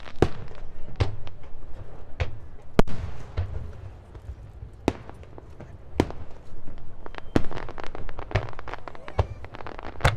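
Aerial fireworks display: shells bursting with sharp bangs about once a second, the loudest about three seconds in, over continuous crackling.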